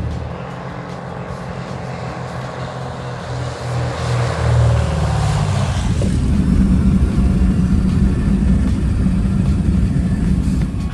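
A motor vehicle's engine running, with a falling whine about four to six seconds in and a steady hum after it.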